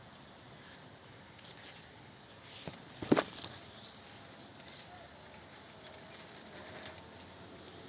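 Faint outdoor ambience with faint bird calls, broken about three seconds in by a single sharp knock preceded by a couple of softer clicks.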